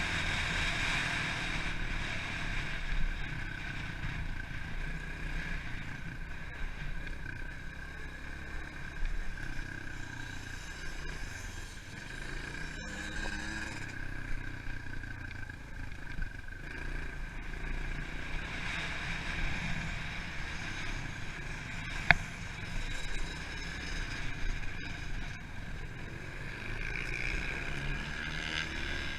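Pit bike engine running continuously as the bike is ridden around a motocross track, the revs rising and falling a little. A single sharp click or knock comes about three-quarters of the way through.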